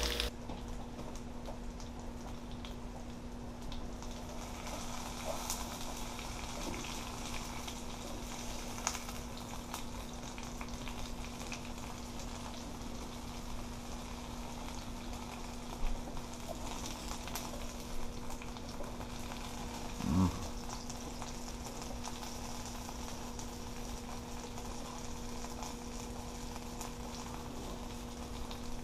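Potato cakes frying in oil in a nonstick pan, a steady sizzle. Now and then a spatula and fork tap and scrape the pan as the cakes are flipped, over a steady low hum.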